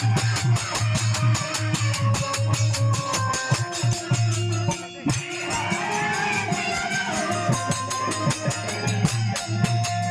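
Live folk stage band music: a fast, steady drum beat with jingling tambourine-like percussion over a sustained bass, with a wavering melody line on top.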